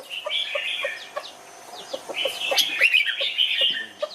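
Red-whiskered bulbul singing two bright, warbling phrases of quick gliding notes, with a short low note repeated about three times a second underneath.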